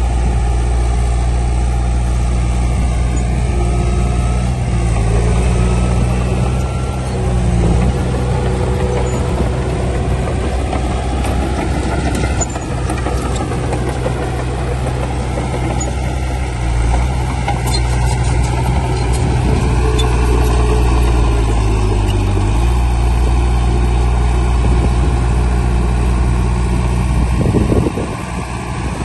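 Heavy diesel engines of earthmoving machinery, a bulldozer and dump trucks, running steadily. The engine speed rises and falls a few times as they work.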